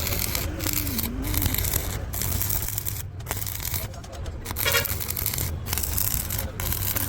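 Stick welding arc crackling unevenly and breaking off briefly several times, over a steady low hum.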